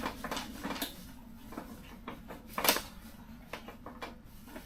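Irregular light knocks and clicks, with one louder knock a little past halfway.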